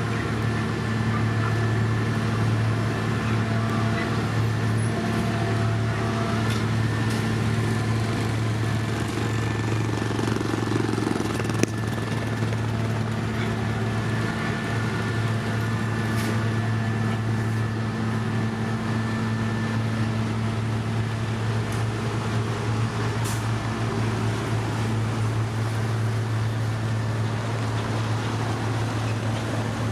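Heavy construction machine's diesel engine running steadily at a constant speed, with a deep, even hum and a few faint clicks.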